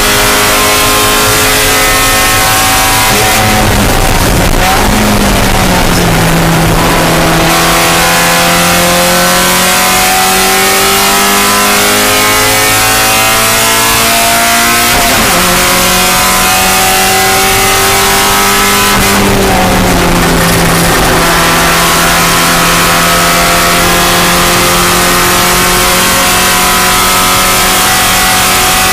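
Spec Miata's four-cylinder race engine running hard. Its pitch drops sharply twice, about four seconds in and again near twenty seconds, as the car brakes and downshifts. In between it climbs steadily under acceleration, with a sudden drop for an upshift about fifteen seconds in.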